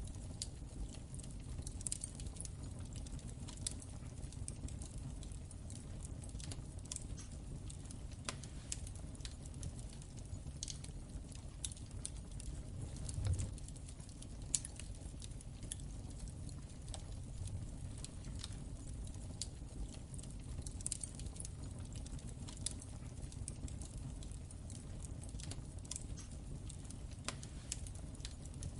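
Wood fire crackling in a fireplace: a low steady rumble of flames with irregular sharp crackles and pops, one louder pop a little after halfway.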